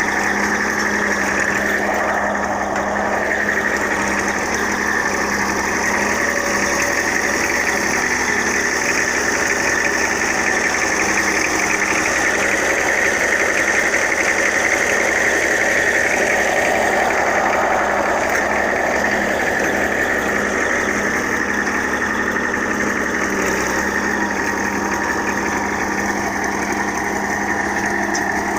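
Ebro farm tractor's diesel engine running steadily while pulling a 16-disc harrow to level furrows.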